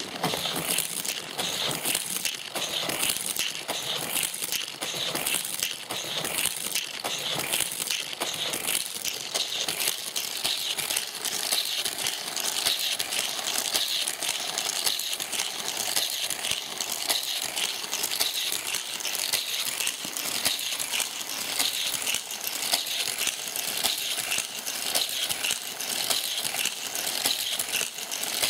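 Die-cast toy cars rattling along plastic track in a continuous, dense clatter of fast small clicks.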